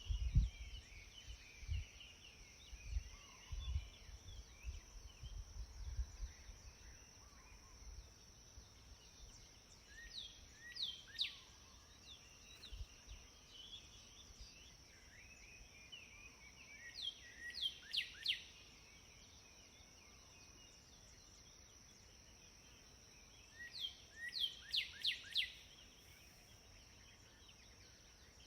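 A songbird calling in three bursts, each a quick run of four or five sharp falling whistled notes, with softer chirps between them. A steady high insect drone runs underneath, and low rumbles, like wind on the microphone, come and go during the first few seconds.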